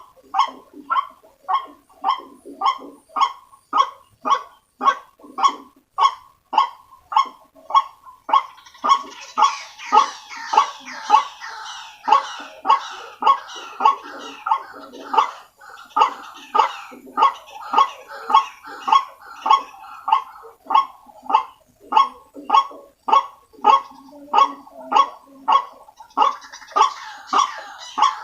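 White-breasted waterhens (ruak-ruak) calling: a loud, monotonous croaking call repeated about twice a second, played as a bird-trapping lure. A second, busier and higher-pitched chatter joins in for several seconds from about a third of the way in, and again near the end.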